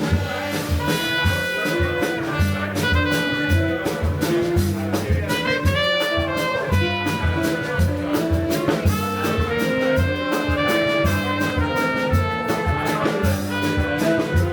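Live jazz band playing: a melodic line with a slide in pitch about five seconds in, over a bass moving note by note and steady drum and cymbal strikes.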